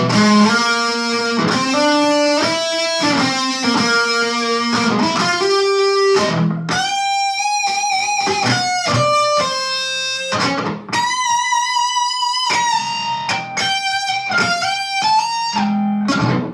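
Electric guitar played solo: a melodic riff of single picked notes, quicker in the first half and then slower with held notes, cutting off suddenly at the end.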